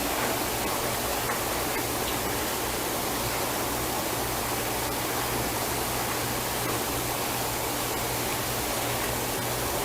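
Chicken and spinach mixture sizzling steadily in a frying pan on the stove, an even hiss with a few faint ticks.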